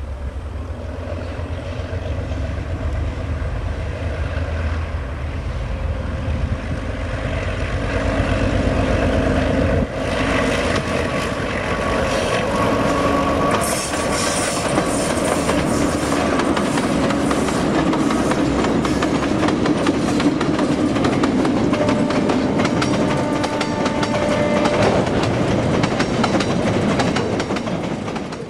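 Several diesel locomotives hauling an empty grain train on a narrow-gauge line, engines working under power and growing louder as they approach and pass. This is followed by the steady clickety-clack of the hopper wagons' wheels over the rail joints.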